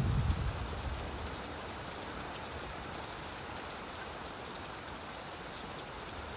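Steady rainfall, an even hiss with scattered drops, as the tail of a low thunder rumble dies away in the first second.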